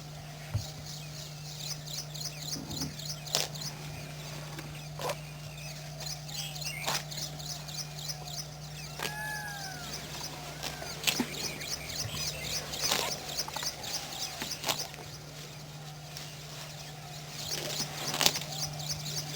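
Wild birds calling, with short chirps and a few arched whistled notes scattered through, over a fast, evenly repeated high chirping and a steady low hum.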